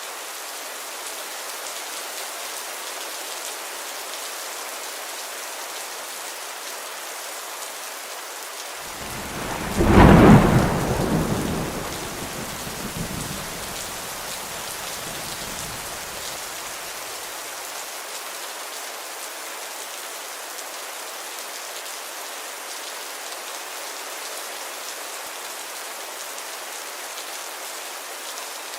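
Steady rain hissing, with one loud thunderclap about ten seconds in that rolls off into a low rumble over the next several seconds.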